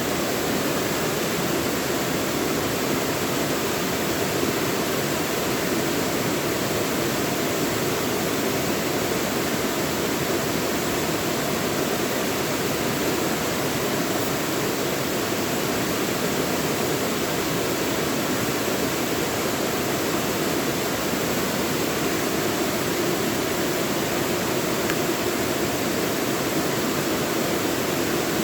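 Mountain valley stream flowing in a steady, even rush of water.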